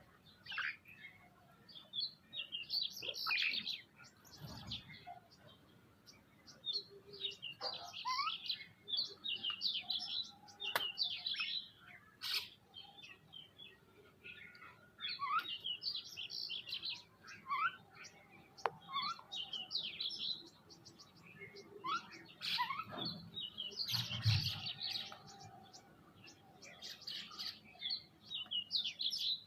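Several birds chirping and calling at a feeding spot, with quick overlapping chirps and trills in clusters and a couple of sharp clicks.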